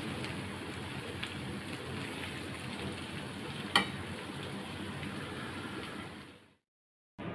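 Marinated chicken pieces frying in hot oil: a steady sizzle with one sharp click about four seconds in. The sizzle fades out and stops shortly before the end.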